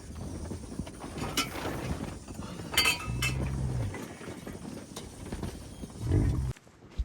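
Low animal calls from livestock, one about three seconds in and a shorter one near the end, with a few sharp clinks in between.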